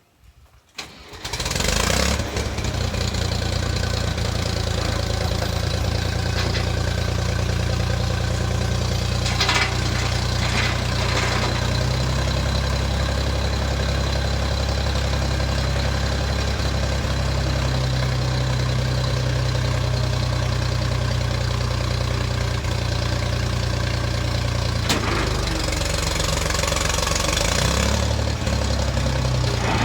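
Old farm tractor engine starting about a second in, then running steadily at idle.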